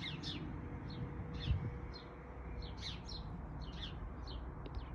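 Small birds chirping: a continual scatter of short, high chirps, several a second, over a low background rumble.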